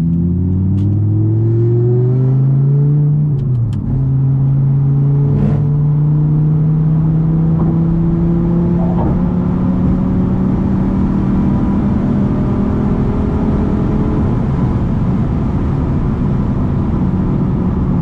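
2011 Audi R8's 5.2-litre V10 accelerating: the engine note climbs for about three seconds, drops with an upshift, then holds a steady, slowly rising pitch as the car pulls on. A single sharp click comes about five seconds in.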